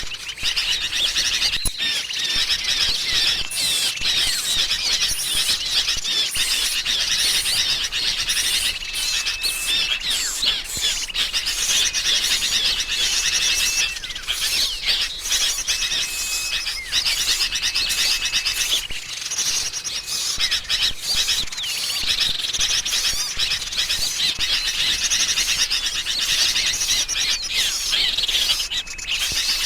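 Dense, busy chorus of small songbirds chirping and trilling, an agitated sooty-headed bulbul lure mix, with a thin level whistle about a second long recurring every few seconds.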